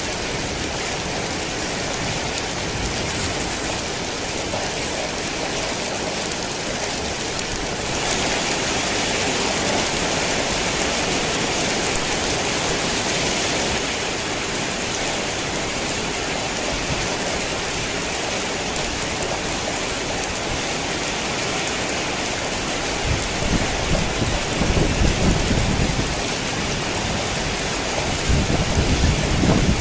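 Heavy rain falling steadily, growing heavier for several seconds about a third of the way in. Low rumbles of thunder come twice near the end.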